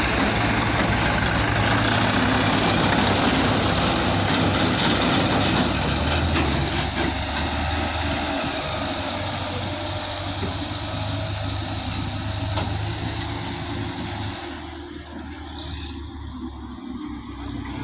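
Diesel tractor engine running steadily under load, easing off and becoming quieter in the last few seconds.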